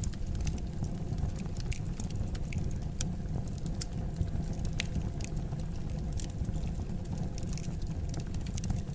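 Fire burning in a fireplace: a steady low rumble of flames with many scattered sharp crackles and pops.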